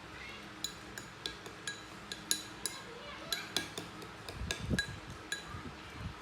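A series of light, ringing clinks of hard objects tapping together, about a dozen spread over several seconds, with a few dull thumps a little past the middle.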